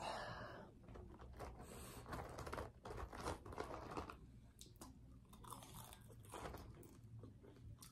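Faint chewing and biting sounds of a person eating a cheesesteak sandwich, with irregular crinkling of the aluminium foil wrapping.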